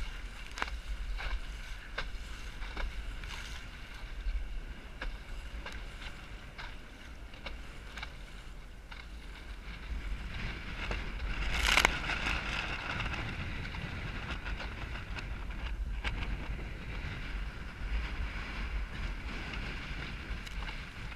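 Wind buffeting the microphone over the rush of water along a small Snark sailboat's hull, sailing in high wind, with frequent small slaps of water. A single loud burst of spray and wind about halfway through.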